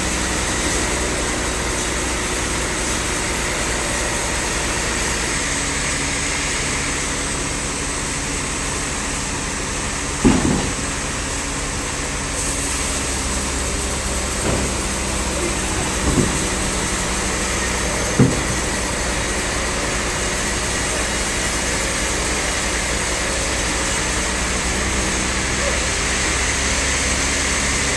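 An engine running steadily, its pitch unchanging, with four short sharp knocks in the middle of the stretch.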